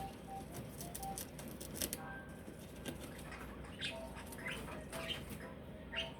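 Pet bird moving about, with sharp clicks and rustles in the first two seconds, then several short high chirps.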